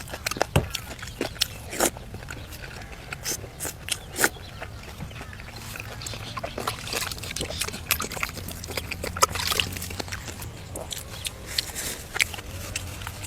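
A person eating noisily close to the microphone: chewing with wet smacking and crunching, in quick irregular clicks.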